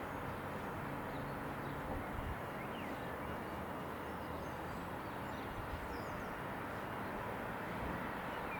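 Steady outdoor background rumble with a few faint bird chirps.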